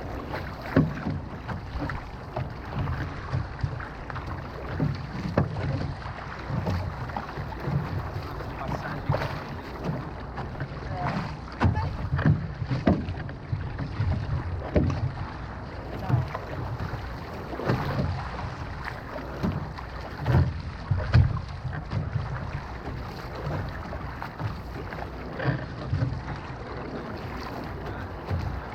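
Outrigger canoe being paddled: water splashing and slapping around the hull with irregular knocks from the paddles and boat, over a low rumble of wind buffeting the microphone.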